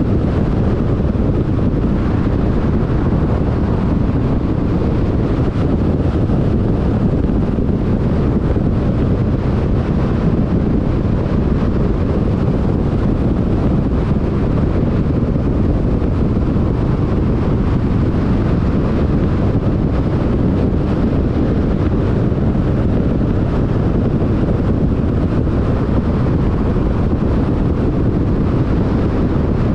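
Car cruising at freeway speed, a steady rush of tyre and wind noise with a low road rumble.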